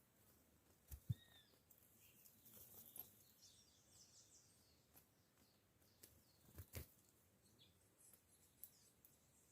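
Near silence with faint, high bird chirps scattered through it, and two soft knocks, one about a second in and one near seven seconds.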